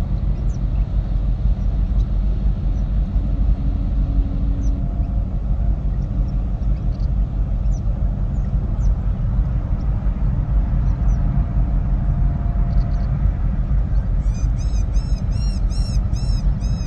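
A steady low rumble with scattered short bird chirps; near the end a bird gives a quick run of repeated arched calls, about three a second.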